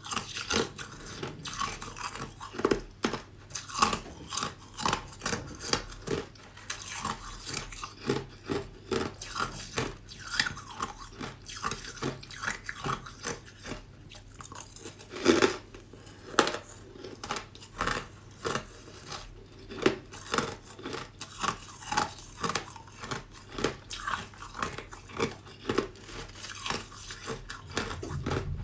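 A person biting and chewing ice: a steady run of sharp crunches, about one or two a second.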